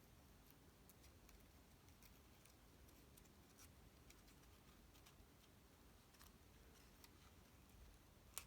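Near silence with faint, scattered light clicks from handling paper card pieces, and one sharper click near the end.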